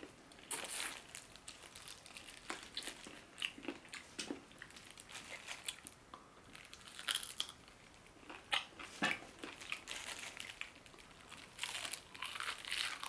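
Crispy fried chicken crunching as it is bitten and chewed, in irregular crackly bites close to the microphone.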